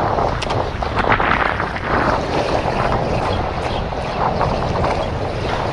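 Steady wind rushing over the microphone, with the wash of water around a small boat and a few short knocks or splashes.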